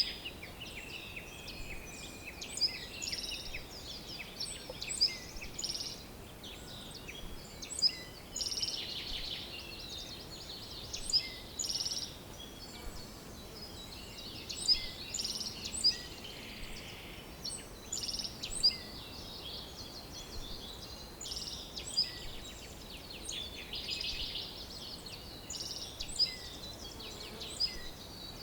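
Several songbirds singing at once: many short chirps, trills and whistled notes, with a few sharper louder calls standing out, over a faint steady background hiss.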